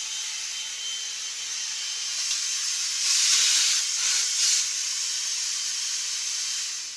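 Dirt Devil Reach Max Plus cordless vacuum running, a steady high airflow hiss with a thin motor whine, drawing air through an attachment. It swells louder about three seconds in and winds down near the end.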